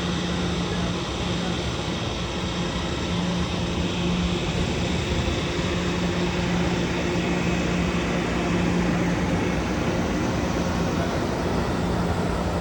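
Amtrak passenger train's diesel locomotive running at the platform: a steady engine drone with a low hum that wavers in strength, over a constant rushing noise.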